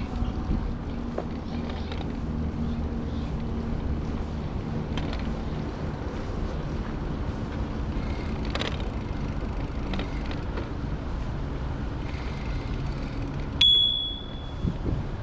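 Steady low rumble of a bicycle ride, with a single ring of a bicycle bell near the end.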